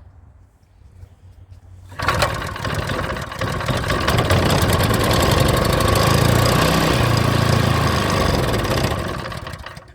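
The small engine of an old Champion pump catches about two seconds in and runs fast for about seven seconds, then dies away near the end. It is running on the cleaner sprayed into it, with no gas in its tank yet.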